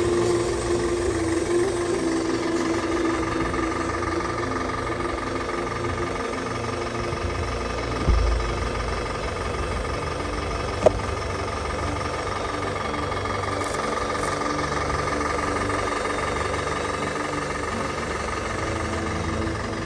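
Diesel-like engine running steadily for a scale Land Rover Defender RC crawler on the trail, with a low thump about eight seconds in and a sharp click a few seconds later.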